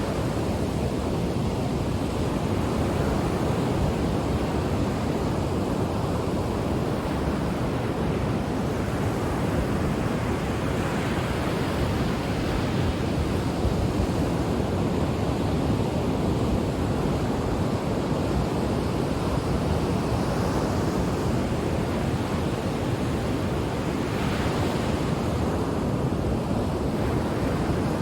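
Ocean waves breaking and washing onto the shore in a steady rush of surf, with swells rising in level every few seconds. Some wind noise is on the microphone.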